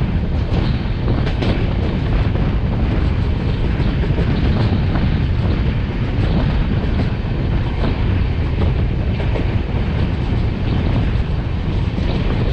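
Steady rushing noise of the Durg Humsafar Express running along the track at speed, with wind buffeting the microphone.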